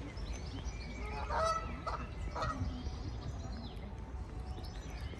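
Birds calling: three short, harsh honks in quick succession about one and a half to two and a half seconds in, with fainter chirps, over a steady low rumble.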